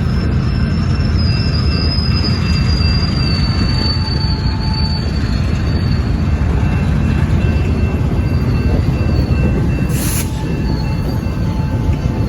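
Switching train of EMD SW1500 locomotives and railcars moving: a steady low rumble with a high, thin steel-wheel squeal that sags slightly in pitch over the first half. A single sharp click about ten seconds in.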